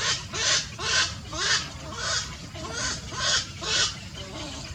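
Bird giving a run of about eight harsh, rasping calls, roughly two a second.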